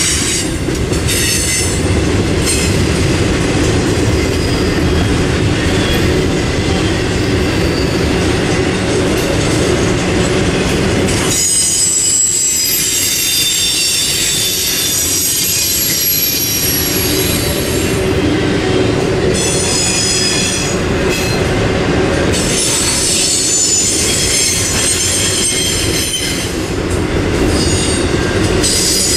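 Double-stack intermodal freight train rolling past close by: a steady loud rumble of steel wheels on rail, with high-pitched wheel squeal coming and going over it.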